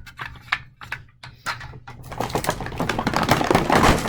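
Toy train pieces being handled: a few separate clicks at first, then a busier, continuous clatter from about halfway through.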